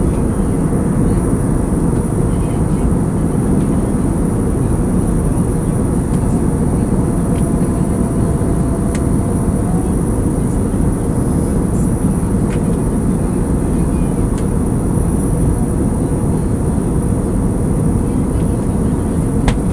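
Steady airliner cabin noise in flight: a constant low rumble of engines and rushing air, with a faint steady high whine over it.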